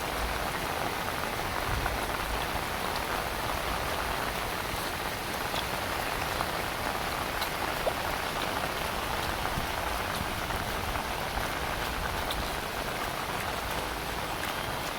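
Heavy rain falling steadily, a dense even hiss with scattered sharper drop ticks and a low rumble underneath.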